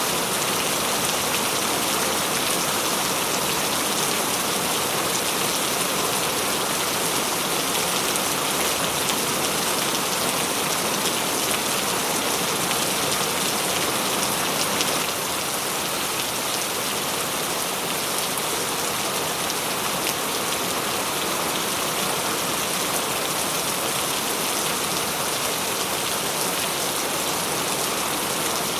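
Steady rain falling, an even hiss of many drops, slightly quieter from about halfway through.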